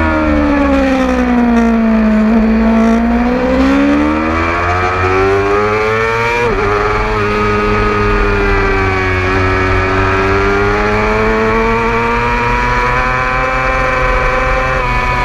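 600cc sport motorcycle engine at racing speed, heard from an onboard camera. The revs fall over the first two seconds, then climb steadily with a brief break about six and a half seconds in, and keep rising to a high, steady pitch.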